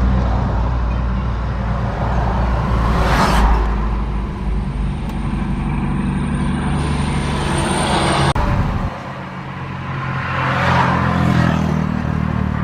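Truck engines running with a steady low hum as vehicles drive past, swelling twice as they go by. The sound changes abruptly about eight seconds in.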